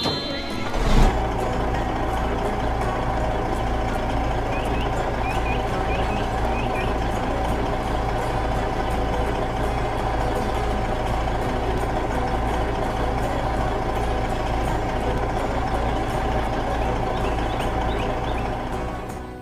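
A heavy vehicle's engine running steadily with a pulsing low rumble. It starts loudly about a second in and fades out at the end.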